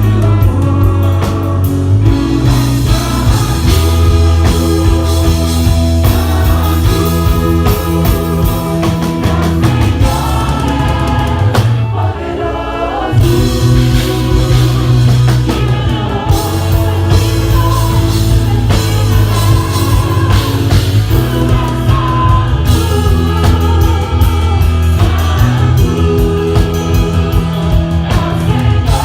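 Live gospel band music with singing: drum kit, bass and guitar backing vocal lines in a medley of church songs.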